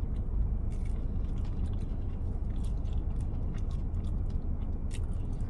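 Chewing and biting into chicken wings: small wet clicks and crunches from the mouth, over the steady low rush of the car's air conditioning.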